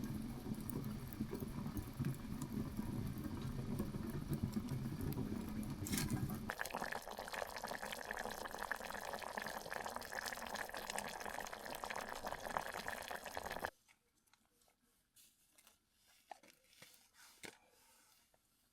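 Liquid being poured steadily into a container for about fourteen seconds. The sound shifts higher in pitch about halfway through, then stops abruptly. A few faint small clicks follow.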